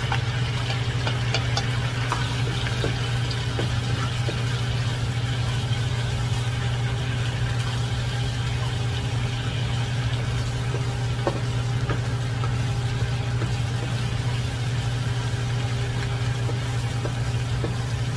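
Chopped garlic sizzling in bubbling chicken-adobo marinade in a nonstick wok, stirred with a spatula that clicks against the pan a few times, over a steady low hum.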